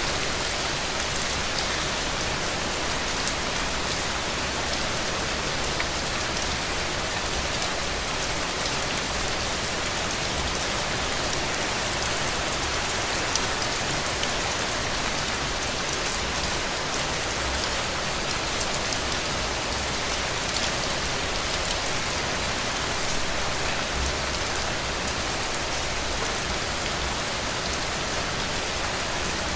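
Heavy rain falling steadily, a dense hiss with scattered small drop ticks.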